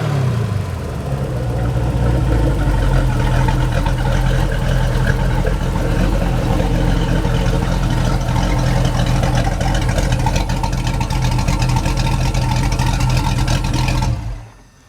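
Mercruiser 383 Magnum Stroker MPI marine V8 running at a steady speed, then shut off about fourteen seconds in.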